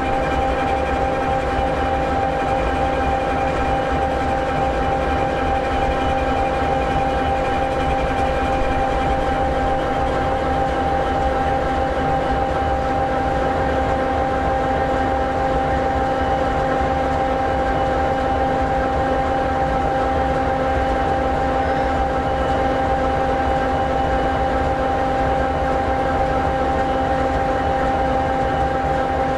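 EMD 16-710G3B diesel engine of an SD60E locomotive idling steadily: a 16-cylinder, two-stroke, turbocharged V engine. It makes a low rumble with a constant whine on top, and a faint higher tone fades out about a third of the way in.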